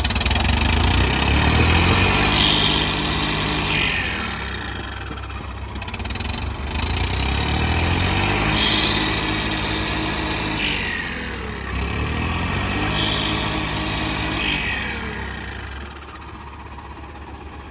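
Diesel tractor engines pulling hard in a tractor tug-of-war, revving up and easing off in three surges before settling to a lower running level near the end.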